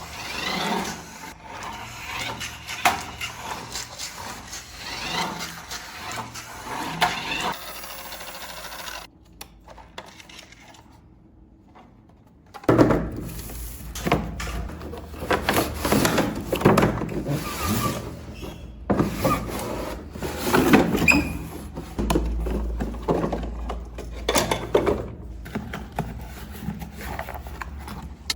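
Hands handling toy packaging and plastic parts: irregular clicks, taps and rubbing, with a quieter stretch in the middle.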